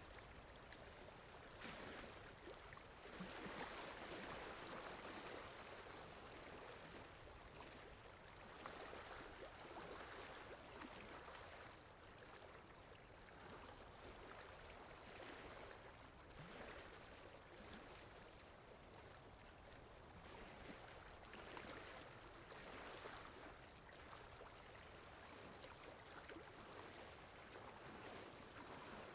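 Faint, steady rain: an even hiss that swells and eases every few seconds.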